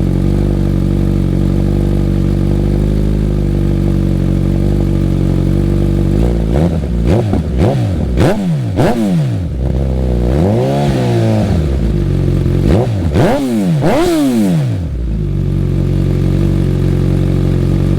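2025 Suzuki GSX-S1000's inline-four running through a full Dominator exhaust with no cats, warm. It idles steadily, then about six seconds in it is revved in a string of quick throttle blips, one held a little longer, and drops back to a steady idle near the end.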